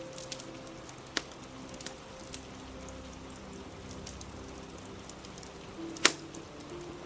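Steady rain falling, with the small crackles of a wood fire and two sharp louder pops, one about a second in and a stronger one near the end. Soft held musical notes sound faintly underneath.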